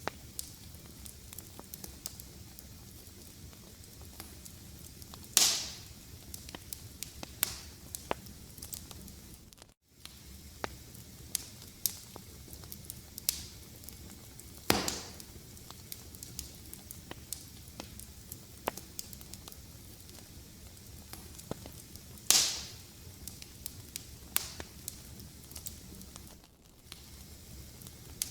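Wood fire crackling: a steady low hiss under frequent sharp snaps, with three louder pops spread through. The sound cuts out for a moment about ten seconds in.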